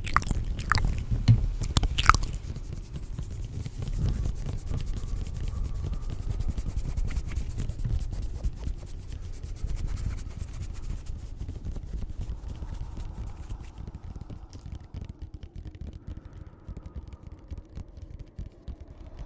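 Layered close-up ASMR sounds: a few sharp clicks in the first two seconds, then dense fine crackling that fades over the second half, over a low rumble and faint wavering tones.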